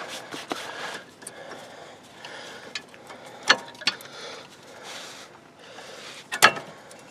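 Metal brake parts being handled: scattered clicks and clinks, with two louder knocks, one about three and a half seconds in and one near the end.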